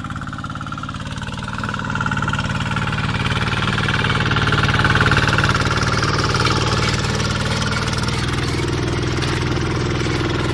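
Homemade tractor's engine running steadily while plowing. It grows louder about two seconds in, then holds.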